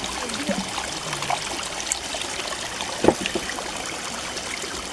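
Shallow forest stream running and trickling steadily, with one sharp click about three seconds in.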